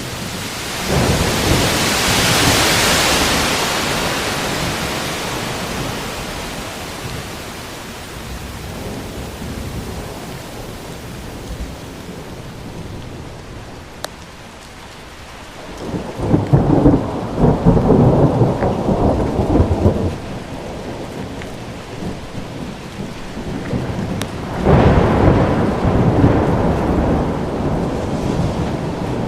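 Steady rain with three peals of thunder: a sharp crack about a second in that rumbles away over several seconds, then two rolling rumbles later on.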